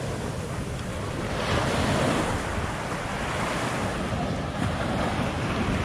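Ocean surf breaking and washing on a sandy beach, a steady rush that swells about a second and a half in, with wind buffeting the microphone.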